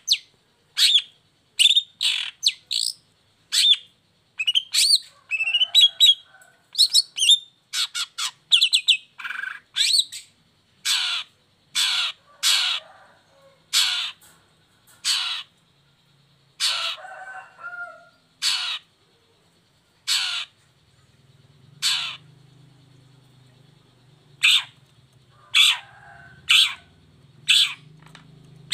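Long-tailed shrike (cendet) singing loudly: a quick run of harsh, scratchy calls and short chattering phrases, then single sharp calls spaced about a second apart. A faint low hum comes in during the second half.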